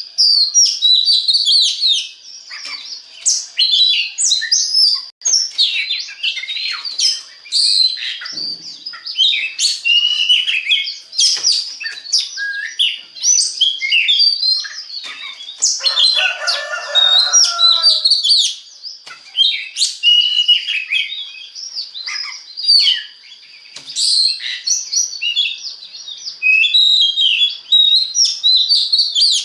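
Oriental magpie-robin (kacer) in full song: a continuous, varied run of quick whistles, trills and chirps with no pauses. About sixteen seconds in, a lower, rougher passage lasts a couple of seconds.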